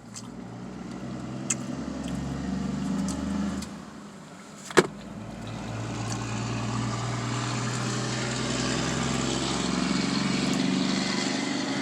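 A car engine running close by, swelling, easing off, then building again for several seconds before dying away, with one sharp click about five seconds in.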